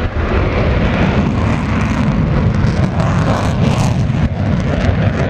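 Aircraft flying past, a loud steady rumble with a hiss on top.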